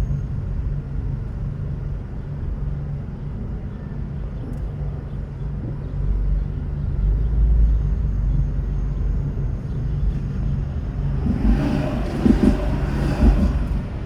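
Car being driven through city streets: a steady low rumble of engine and road noise that grows heavier about six seconds in. About eleven seconds in a louder rushing noise with a rough low growl rises and fades over a couple of seconds.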